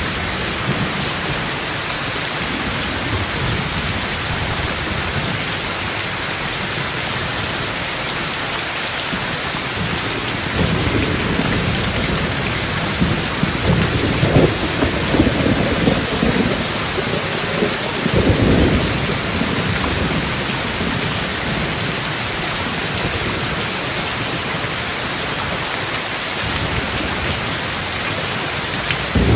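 Steady heavy rain, with rolling thunder that swells in from about a third of the way in, rumbles loudest around the middle and fades again before two-thirds through.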